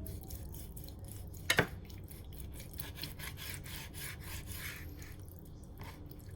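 Small rubbing and scraping handling noises with light scattered clicks, and one sharp click about a second and a half in.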